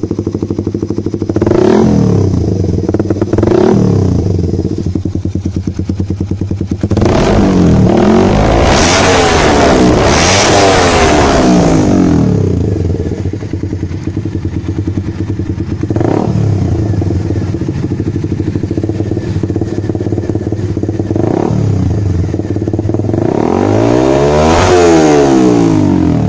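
Motorcycle engine breathing through a Higashi Eurofighter carbon-kevlar aftermarket exhaust, idling steadily between throttle blips. There are short revs about two and four seconds in, a long high rev that holds for several seconds in the middle, two more quick blips, and a final rev that climbs and falls near the end.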